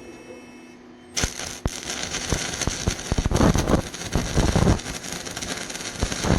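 Stick-welding arc crackling and spitting, struck about a second in and burning on steadily with many sharp pops, as an electrode is run on a rusted steel pipe.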